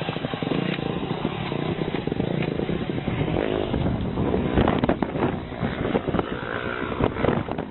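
Motorcycle engine running.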